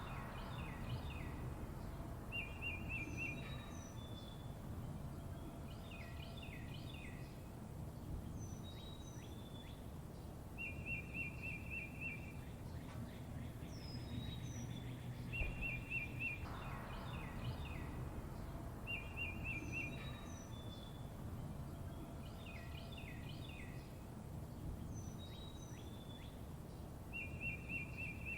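Wild birds chirping and singing: a short, fast trill repeats every few seconds, mixed with high falling whistled notes and quick clusters of chirps. A steady low rumble runs underneath.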